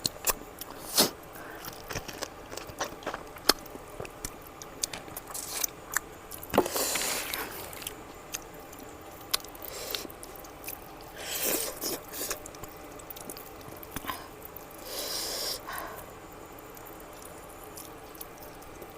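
Close-miked eating of fatty mutton curry: chewing with wet mouth sounds and sharp smacking clicks, and three longer hissing stretches about a second each.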